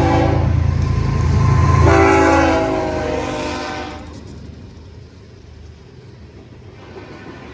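Diesel freight locomotive's air horn sounding as the train passes: one blast cuts off about half a second in, and a second blast follows a little over a second later for about two seconds, its pitch sagging slightly. A low locomotive engine rumble underneath fades away, leaving a fainter rolling rumble.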